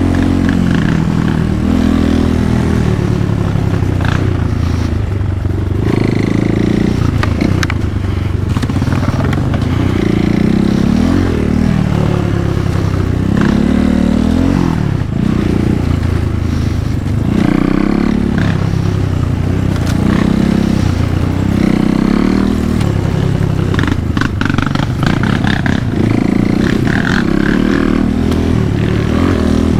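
Kayo T2 dirt bike's single-cylinder engine revving up and dropping back over and over as the throttle is opened and closed. Occasional clatter and knocks come from the bike.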